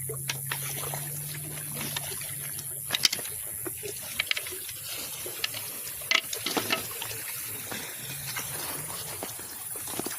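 Small waves lapping and trickling at a lake shore, with scattered sharp clicks and knocks.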